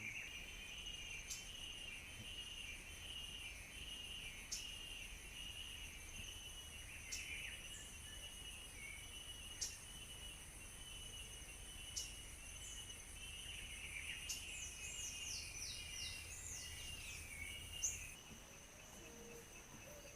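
Outdoor nature ambience: a steady high-pitched insect trill, with birds calling over it. A short high call repeats every few seconds, and a quick series of falling whistled notes comes past the middle. A faint low rumble underneath stops near the end.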